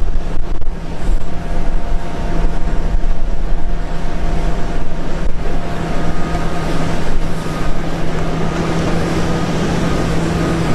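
Jet airliner engines running: a steady, loud rumble with a constant low hum and fainter whining tones above it.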